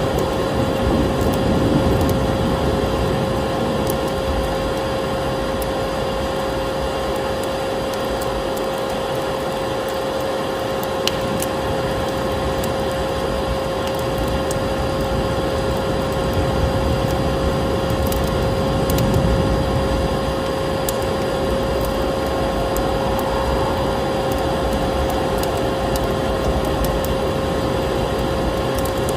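Electric vacuum cleaner running steadily with a constant motor whine, mixed with the crackling of a wood fire in a fireplace: sparse sharp pops over the vacuum's noise.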